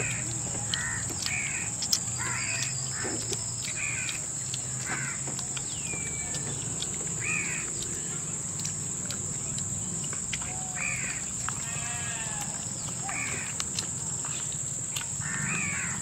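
Repeated short, harsh bird calls, about one a second at first and sparser later, over a steady high-pitched hiss. A single sharp click comes about two seconds in.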